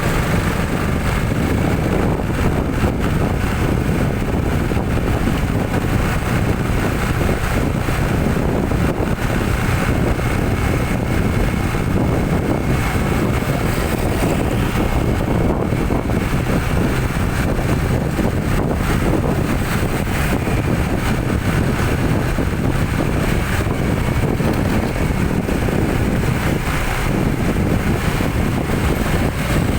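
Steady driving noise from a moving vehicle: engine rumble and road noise, with wind rushing over the microphone.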